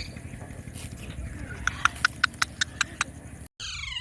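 Indian ringneck parrot making a rapid run of sharp clicking notes, about six a second, then a short falling squawk near the end.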